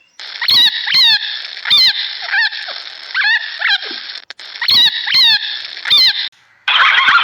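An animal giving a series of about ten short, high, squeaky calls, each bending in pitch, over a steady background hiss. The calls stop suddenly and a different, dense noisy sound begins near the end.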